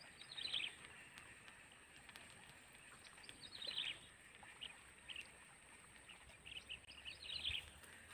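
A bird calling: three short bursts of quick, falling high notes about three seconds apart, with a few single notes between them.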